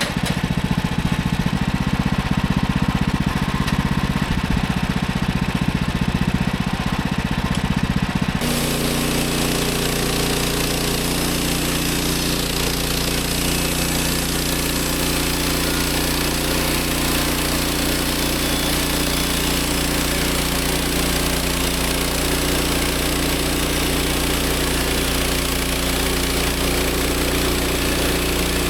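The gas engine of a Woodland Mills 130 Max portable bandsaw mill running steadily under power. About eight seconds in the sound changes abruptly to a steadier drone with more hiss.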